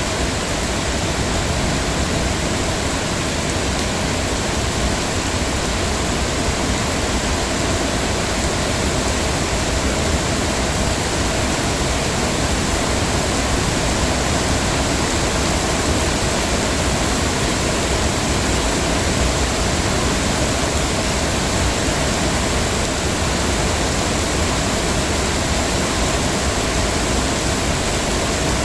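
Heavy rain falling steadily, an even, unbroken hiss with no let-up or change.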